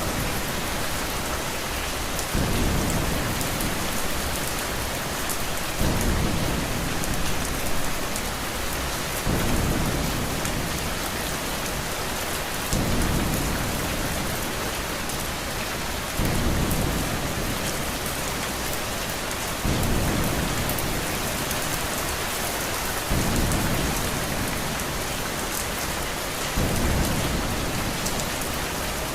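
Steady heavy rain with a low rumble of thunder. The rumble swells abruptly and regularly, about every three and a half seconds.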